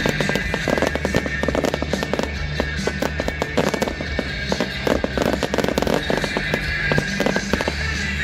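Fireworks crackling and popping in rapid, dense succession throughout, over loud music.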